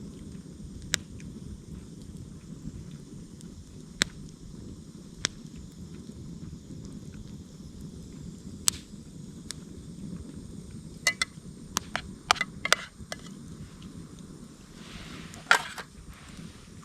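Wood campfire crackling: a steady low rush with sharp, irregular pops, which come thicker and in quick clusters in the second half.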